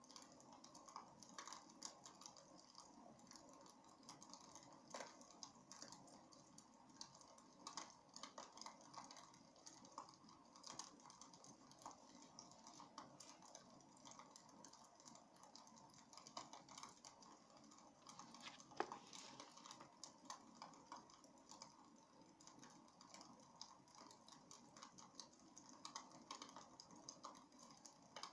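Wood fire crackling in a fireplace: irregular sharp pops and snaps over a faint steady hiss, with one louder pop about two thirds of the way through.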